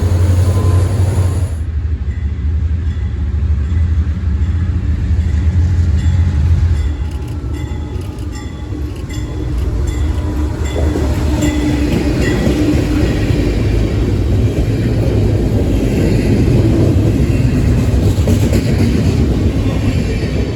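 A train passing, with a low steady drone in the first few seconds and then a rapid run of wheel clicks over the rail joints, with faint thin squeals from the wheels.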